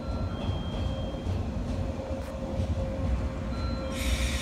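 JR East 485-series electric train rolling slowly into a station: a low rumble of wheels and running gear with a few faint thin squeals. A loud hiss starts near the end.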